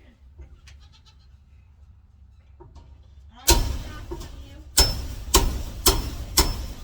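A low hum, then a run of five sharp knocks or bangs starting about halfway through, roughly half a second apart.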